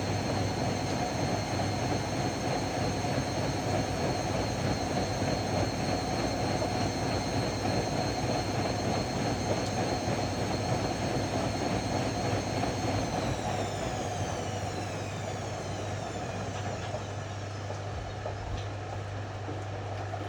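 Ariston AML125 washer-dryer spinning at speed, a steady high motor whine over a hum and rushing drum noise. About two-thirds of the way through, the whine starts falling in pitch and the sound eases as the drum winds down at the end of the spin.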